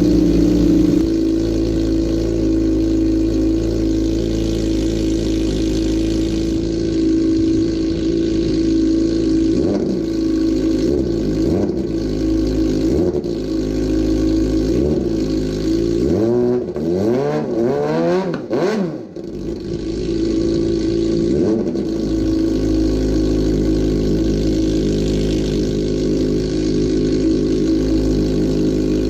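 Motorcycle engine idling steadily, with the throttle blipped several times in the middle so the revs rise and fall, the biggest rev about two-thirds of the way in, then settling back to idle. The bike is being run to warm it up during winter storage.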